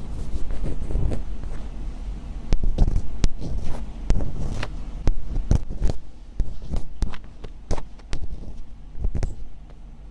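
ASMR scratching close to the microphone: irregular crisp scratches and clicks, some strokes quick and some drawn out, with a low rumble of handling underneath.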